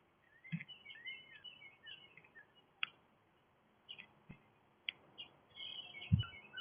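Small songbirds chirping and twittering in quick, overlapping calls, with a few sharp clicks and soft low thumps among them.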